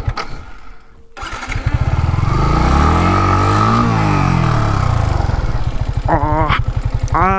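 Yamaha MT-15's single-cylinder engine being revved while the bike is stuck off-road. The engine sound drops almost away about a second in, then rises in a long rev and falls back, and keeps running steadily.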